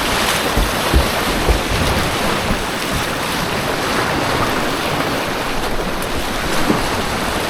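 Rushing white water on an artificial white-water course, a steady churning roar close by, with a few dull knocks about a second in and again near the end.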